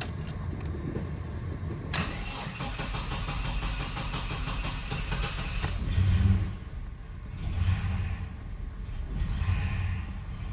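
2002 Chevy S10's 4.3-litre V6 being started: the starter cranks it for about four seconds, then the engine catches with a loud rev at about six seconds and is blipped twice more while idling. A low engine rumble runs under it all.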